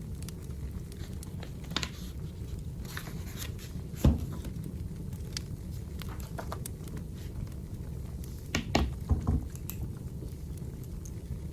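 Wood fire burning in a fireplace: a steady low rumble with scattered crackles and pops, one louder pop about four seconds in and several more close together near the end.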